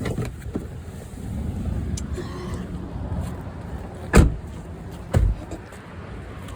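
Low, steady rumble of road vehicles, with two sharp knocks about a second apart a little past the middle.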